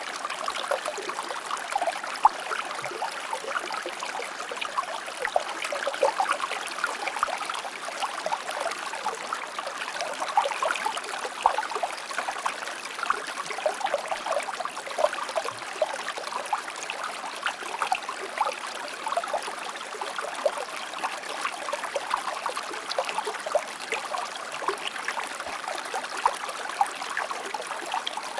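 Shallow stream water flowing and splashing over stones: a steady babble with many small quick splashes and trickles, little deep rumble.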